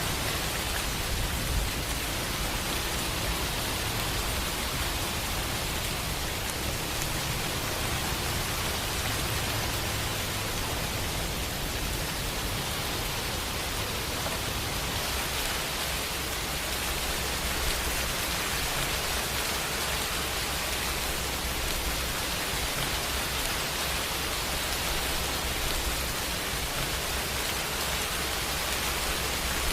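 Steady rain, an even hiss with a low rumble underneath that swells and fades.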